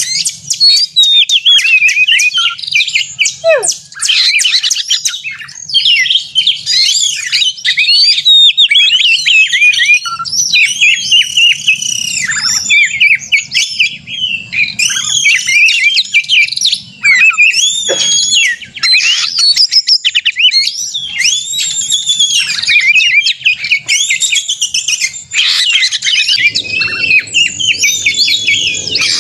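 Male Oriental magpie-robin singing loudly and without pause: a rapid, varied stream of whistles, trills and harsh notes. This is the excited, aggressive 'narung' song of a bird worked up to fight.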